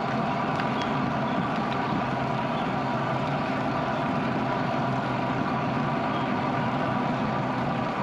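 Steady riding noise from a bicycle on a road, wind over the microphone and tyres rolling, with a faint steady hum and no change in level.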